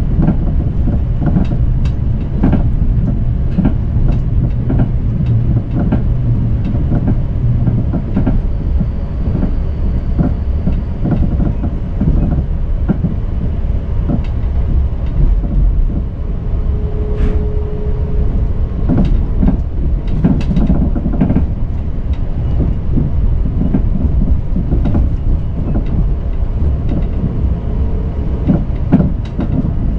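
Limited express Yakumo electric train running at speed, heard from inside the carriage: a steady low rumble with irregular clicks and knocks from the wheels on the rails. A brief steady hum rises over it a little past halfway.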